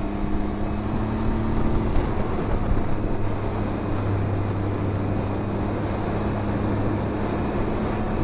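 Can-Am Ryker Rally three-wheeled motorcycle engine running at a steady cruise, with wind and road rush over it.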